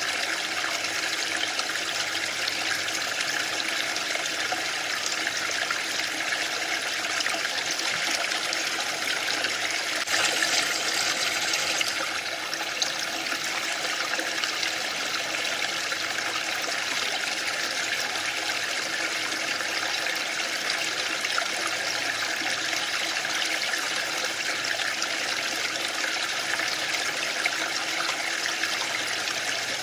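Waterfall: water falling and splashing in a steady, unbroken rush, briefly a little louder about a third of the way in.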